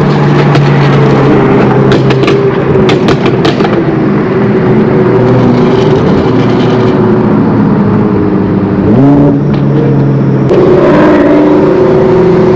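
A car engine running steadily and loud close by, its pitch stepping up quickly about nine seconds in and holding there, with a few sharp clicks early on.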